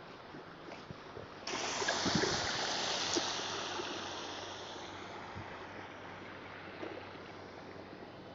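A gust of wind rushing through a snowstorm, coming on suddenly about a second and a half in and slowly dying away over the next few seconds.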